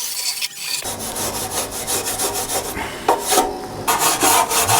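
Harsh rasping and scraping strokes, irregular and coarse. They start suddenly about a second in and get denser and louder toward the end.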